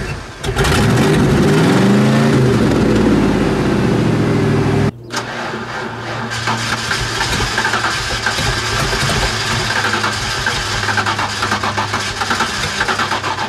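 Demolition-derby car's engine revved hard, its pitch rising and falling, then dropping abruptly about five seconds in to an uneven, stumbling run with irregular crackles. The rough running is taken for a fuel-delivery problem.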